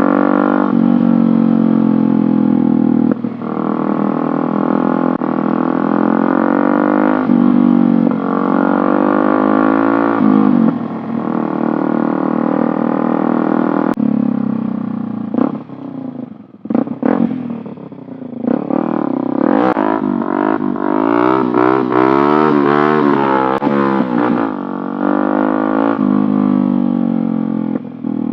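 Small motorcycle engine with an aftermarket exhaust running under way, its pitch climbing and then dropping several times with throttle and gear changes. Around the middle the throttle is chopped sharply a few times, and later the engine speed wavers up and down.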